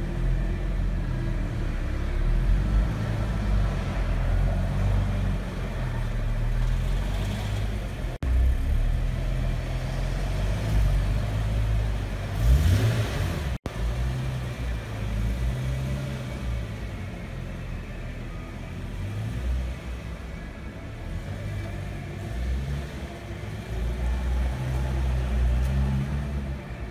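Nissan 370Z Nismo's 3.7-litre V6 running at idle with a low exhaust note, given a quick rev that rises in pitch about twelve seconds in. The sound breaks off for an instant twice.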